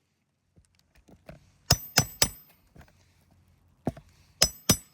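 Hammer driving a roofing nail through an asphalt shingle: three quick strikes about two seconds in and three more near the end, each with a short metallic ring.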